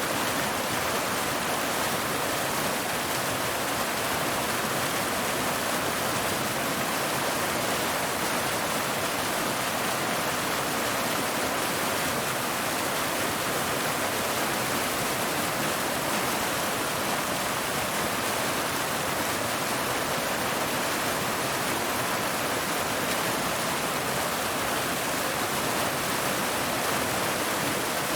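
Waterfall: water falling over rocks, a steady, even rush with most of its energy in the upper-middle range and no change in level.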